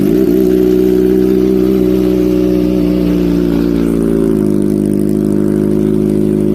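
Kawasaki Ninja ZX-25R's 250 cc inline-four idling through an aftermarket exhaust, a steady even note that shifts slightly about four seconds in.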